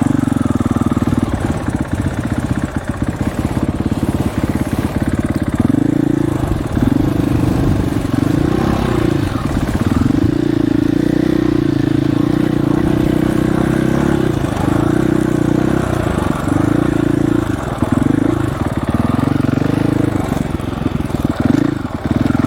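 Dirt bike engine running while riding, its pitch rising and falling again and again as the throttle opens and closes.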